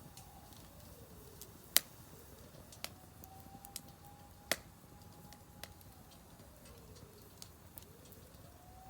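Wood fire crackling in a Solo Stove Campfire fire pit: scattered small ticks with two sharp pops, the louder about two seconds in and another midway. A faint background tone slides down and back up twice.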